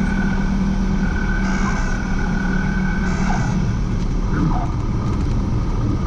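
Steady engine and propeller drone in the cockpit of a light airplane in flight, with a thin steady whine that stops about three and a half seconds in.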